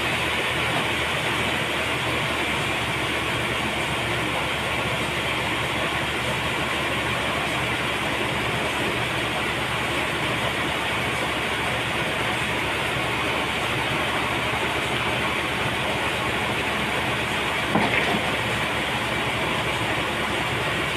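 Sawmill machinery running steadily through a trembesi log, a loud, even mechanical noise with a low hum. A brief louder sound near the end.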